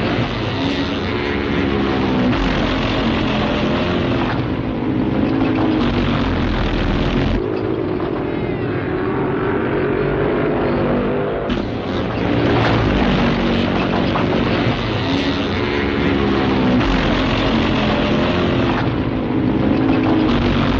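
Motocross bike engines revving up and down, with the pitch rising and falling repeatedly and the sound changing abruptly twice.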